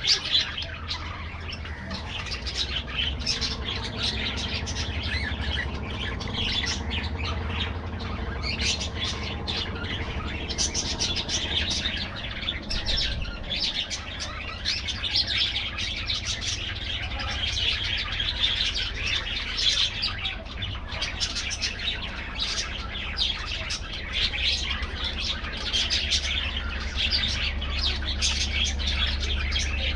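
A flock of budgerigars chattering and chirping without a break, many birds at once, over a steady low hum.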